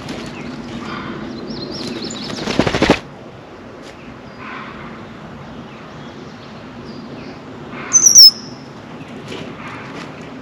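Wings flapping in a rapid flutter close to the microphone, a bird taking off from the feeder, about two and a half seconds in. Near the end, a single loud, sharp, high bird call slides down in pitch, with softer bird calls scattered around it.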